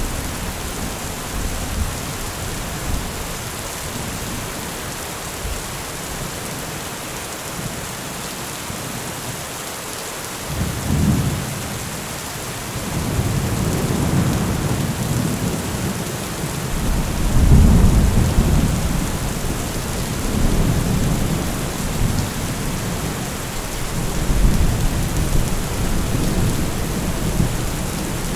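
Heavy rain falling steadily, with rolling thunder rumbling in about a third of the way in, swelling to its loudest a little past halfway and rumbling on again near the end.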